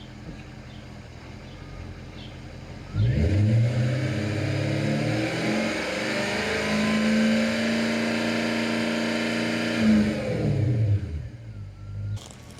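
Jaguar XK8's V8 idling through its exhaust, then revved up about three seconds in and held at a steady high rpm for about seven seconds before dropping back to idle.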